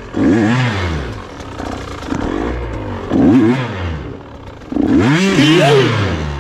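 KTM 125 two-stroke single-cylinder dirt bike engine revved in three surges, its pitch climbing and falling each time, running lower in between.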